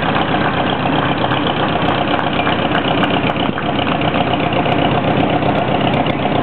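A 1950 International Harvester W-4 tractor's four-cylinder engine running steadily and loud at low speed, with a faint regular ticking in its note.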